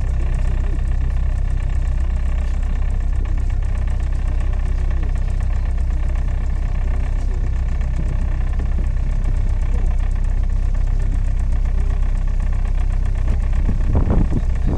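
Boat engine running steadily, with people's voices faint underneath and a little louder near the end.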